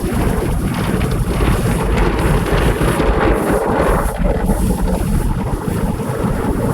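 Automatic car wash working over the car, heard from inside the cabin: a loud, steady rush of water and machinery with a heavy low rumble.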